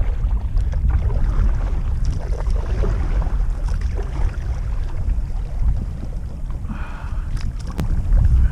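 Wind buffeting the microphone: a steady low rumble, with a few sharp clicks near the end.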